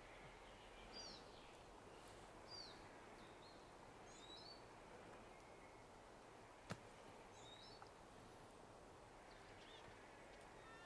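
Near silence in a forest clearing, with faint bird chirps: short high calls every second or so, some sliding down in pitch. One sharp click about two-thirds of the way through.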